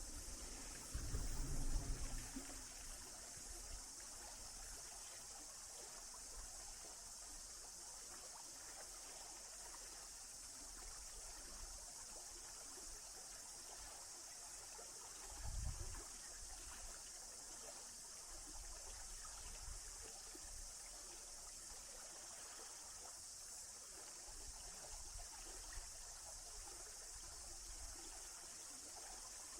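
Faint stream trickling over a steady high hiss. Two short low rumbles stand out, one about a second in and one about halfway through.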